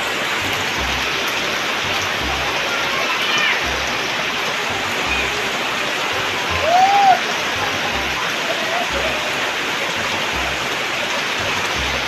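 Steady rain falling, an even hiss throughout. A few short rising-and-falling calls sound over it, the clearest about seven seconds in.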